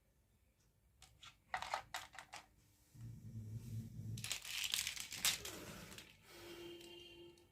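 Small plastic toy pieces clicking and tapping several times in quick succession, then plastic packaging crinkling.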